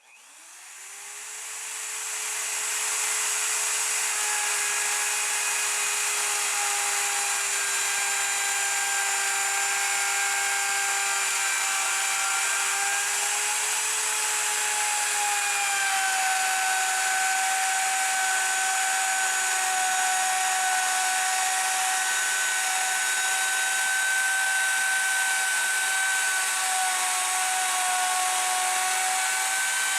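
Wood router spinning up to speed and then running steadily as it cuts a 3/4-inch rabbet along the edge of a panel. Its high whine shifts slightly in pitch about halfway through as the load changes.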